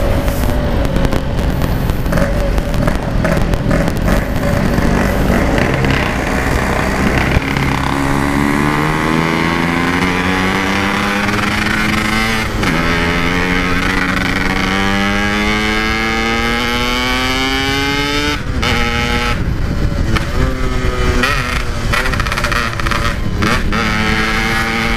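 Yamaha RX-King's two-stroke single-cylinder engine accelerating hard through the gears on the road: the pitch climbs steadily, drops at a gear change about halfway, climbs again, then falls as the throttle is eased off about three-quarters of the way in. Heavy rushing wind noise runs underneath.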